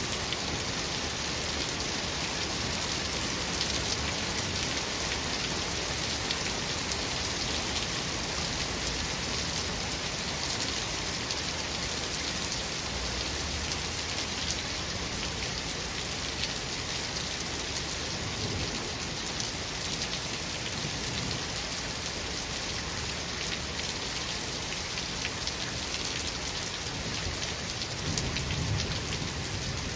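Steady rain with a constant hiss of drops, and low rumbles of thunder now and then, the strongest near the end.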